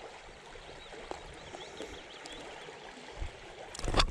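A small river running high and fast after flooding, a steady rush of water around someone wading in it, with faint bird chirps in the middle and a brief thump near the end.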